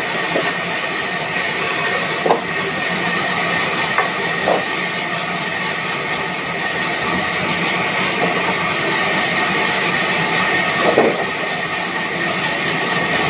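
Sawmill machinery running steadily, a continuous mechanical noise with a steady high whine, broken by a few brief knocks.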